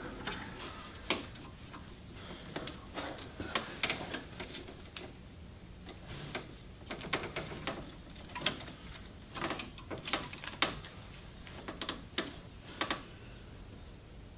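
Irregular light clicks and taps of hand work on engine parts, a linkage being fitted back on in the engine bay: small metal pieces and tools knocking together, with short clusters of quick clicks.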